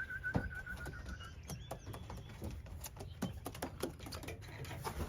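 A pigeon keeper's warbling call whistle, held at one pitch, ending about a second in. It is followed by a run of irregular light clicks and taps.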